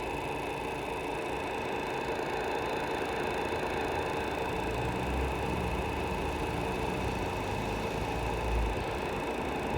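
Radio-controlled Tamiya Scania R620 6x4 model truck running with a steady mechanical whine from its drive, with a low rumble added from about five seconds in to near the end.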